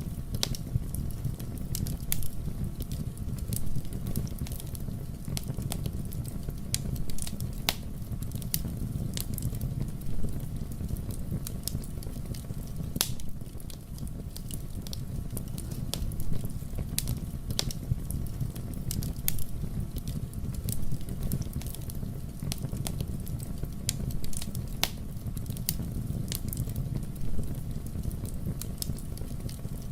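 Wood fire burning in a fireplace: a steady low rush of flames with frequent sharp crackles and pops from the burning wood, irregularly spaced.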